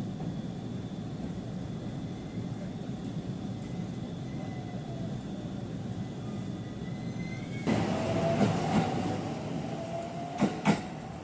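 Aichi Loop Railway train running, heard from inside the carriage as a steady low rumble. About eight seconds in it gets louder, with a thin rising wheel squeal and a few sharp clacks of the wheels over rail joints.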